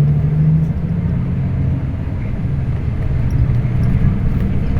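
Scania K340IB bus engine running under way, a steady low drone with road noise.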